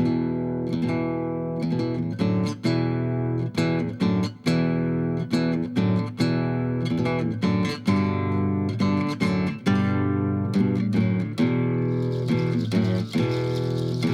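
Music: acoustic guitar strumming and picking chords, with a steady hiss joining near the end.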